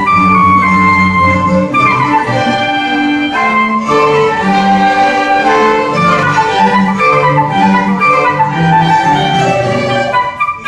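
A school orchestra playing a piece, strings and woodwinds together with a melody over a moving bass line; the sound dips briefly near the end.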